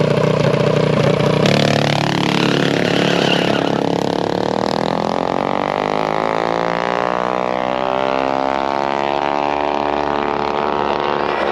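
An engine running steadily, then about a second and a half in it goes to full throttle and accelerates hard, its pitch climbing for several seconds before levelling off: a drag-strip launch and run.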